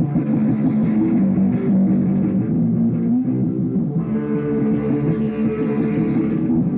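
A rock band playing live: electric guitars, bass and drum kit in a loud instrumental passage, before the vocals come in.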